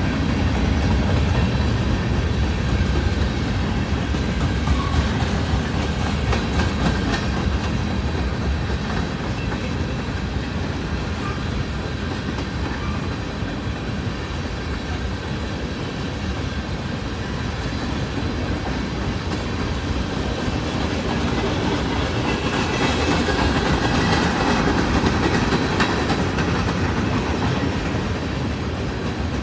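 Norfolk Southern mixed freight train rolling past, its cars clickety-clacking steadily over the rail joints. A heavy low rumble dies away over the first several seconds, and the rolling noise swells again near the end.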